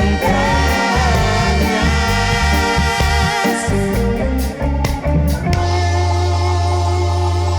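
Live reggae band playing, with a moving bass line under guitar and keys, then settling into a long held chord over a steady bass note about five and a half seconds in.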